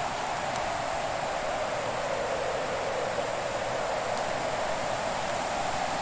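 Wood fire burning with a steady hiss and a few faint, sharp crackles.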